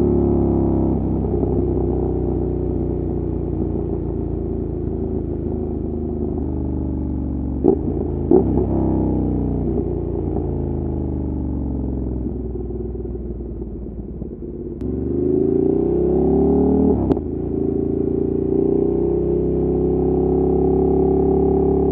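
Ducati Monster 1200's L-twin engine and exhaust under way: the revs fall as the bike slows, with two short sharp blips about eight seconds in. About fifteen seconds in it accelerates with rising revs, a sharp click comes near seventeen seconds, and it settles to a steady cruise.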